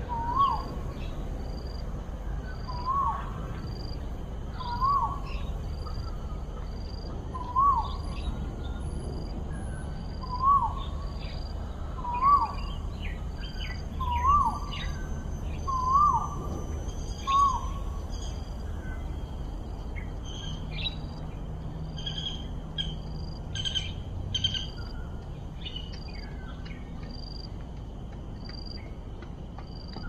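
A bird calling one short whistled note over and over, about every two seconds, growing louder before it stops about halfway through. A fainter high-pitched note repeats about once a second throughout, with a few other chirps.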